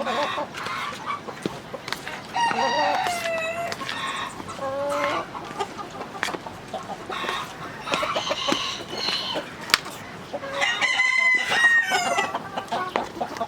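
Chickens clucking and calling, with a rooster crowing; the longest calls come about two and a half seconds in and again near the end. Scattered sharp clicks sound in between.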